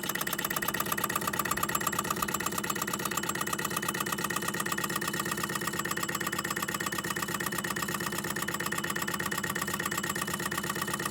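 Electrically heated Empire B-38 cast-iron hot air (Stirling) engine running steadily, its mechanism giving a fast, even beat.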